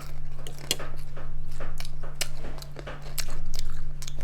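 Close-up crunching and chewing of crispy fried chicken skin, with many sharp crackles, over a steady low hum.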